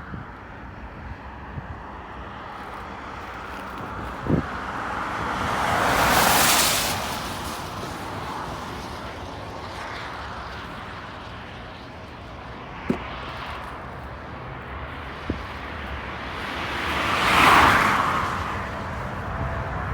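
Two road vehicles passing close by, each a whoosh that swells and fades over a few seconds, the second about eleven seconds after the first, over a steady low rumble, with a few faint knocks.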